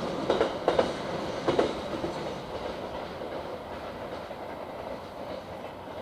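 Freight train wagons rolling past over the rails, with a few clacks of wheels on rail joints in the first second and a half, then a steady rumble that fades as the train moves away.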